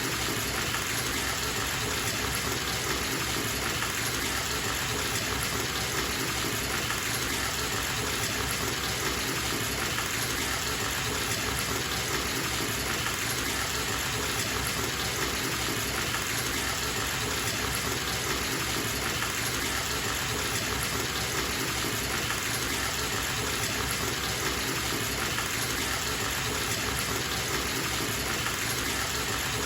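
Bathtub tap running full, water pouring steadily into the tub, an even unbroken rush.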